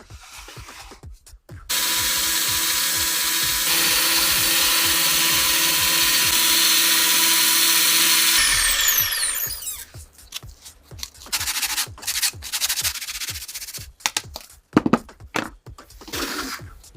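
A power tool, as used on the rusty pistol parts, switched on and running steadily for about seven seconds: a loud hiss over a steady hum. It is then switched off and spins down with a falling whine, followed by scattered clicks and knocks of parts being handled.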